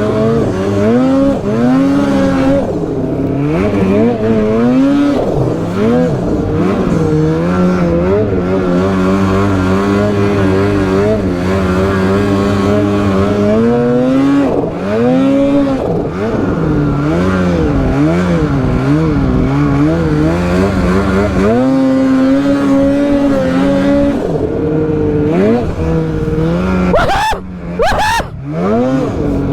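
Polaris Boost turbocharged two-stroke snowmobile engine running under load while riding, its pitch climbing and falling as the throttle is worked. Near the end there are two short drops in the sound.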